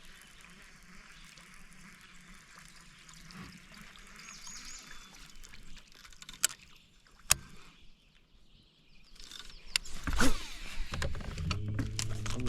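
Sounds from a small fishing boat on a lake: faint water sounds, two sharp clicks about a second apart past the middle, then a louder splashing rush near the end. A steady low buzzing hum starts just after it.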